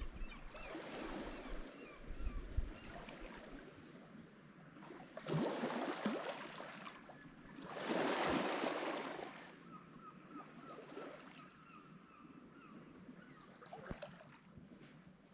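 Lake Michigan waves crashing on the shore. Two bigger waves wash in about five and eight seconds in, the second the loudest, between quieter stretches of lapping water.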